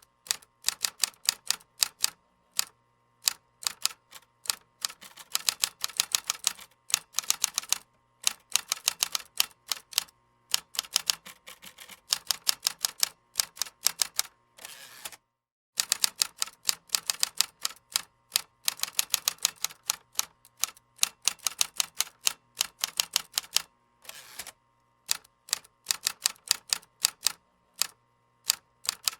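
Typing on a computer keyboard: quick runs of key clicks with short breaks between them, and a brief pause about halfway through.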